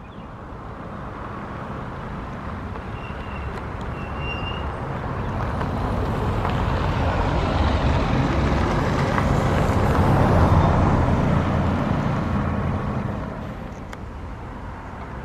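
Jet noise of an Airbus A350-1000's Rolls-Royce Trent XWB engines at takeoff power, a steady rushing sound that grows louder to a peak about ten seconds in, then falls away as the jet passes.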